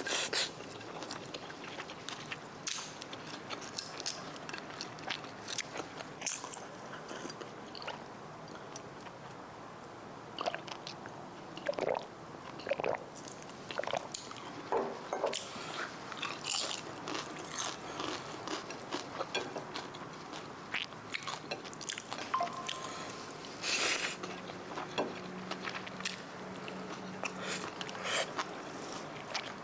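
A person biting and chewing crunchy food close to the microphone, with many short, irregular crunches.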